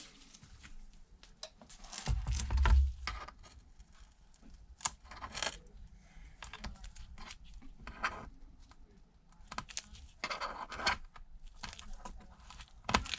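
Small metal repair tools scraping, clicking and tapping against a tablet's casing while glued-down parts are pried and peeled, with a louder bump and rustle about two seconds in.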